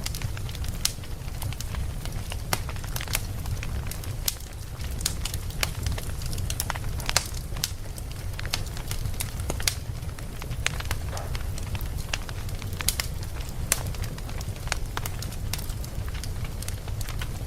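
Campfire crackling, with irregular sharp pops and snaps of burning wood over a steady low rumble.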